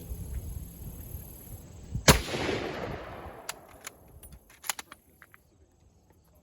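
A single shot from a 1903 Springfield rifle in .30-06, about two seconds in, its echo trailing off over about a second. A few short, sharp clicks follow.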